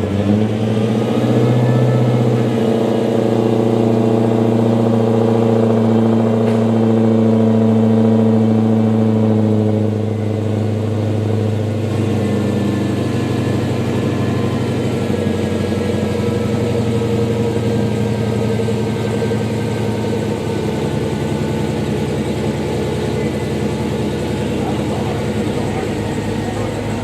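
Supercharged 6.2-litre Hemi V8 of a Dodge Hellcat idling steadily just after a start, its raised start-up idle settling down to a lower idle about ten seconds in.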